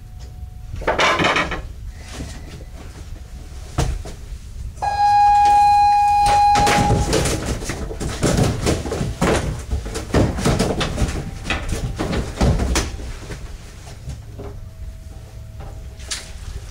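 Knocks and clattering bangs of gear on a fishing boat over a steady low engine hum. A steady high tone sounds for about two seconds near the middle.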